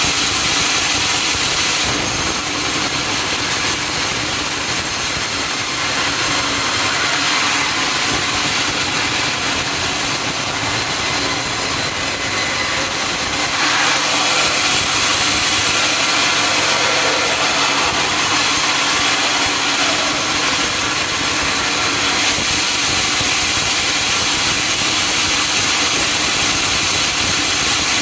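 Sawmill saw running and cutting through a teak log, over the steady hum of its drive engine; it gets a little louder about halfway through.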